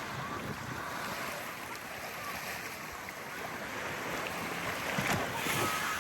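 Small waves lapping and washing onto a sand beach, with breeze on the microphone. The wash grows louder about five seconds in.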